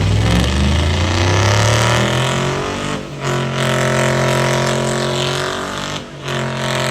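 Car engine revving hard: the pitch climbs for about three seconds, then holds steady at high revs, dipping briefly twice, as a car does during a burnout.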